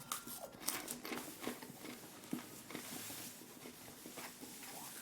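Faint rustling and scattered small clicks of handling: popcorn and its packaging being moved about on the table.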